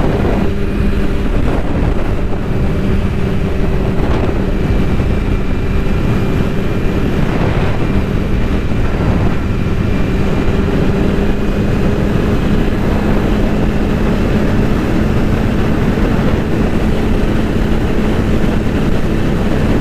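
Vehicle engine running at a steady speed, a constant drone under heavy low wind and road rumble.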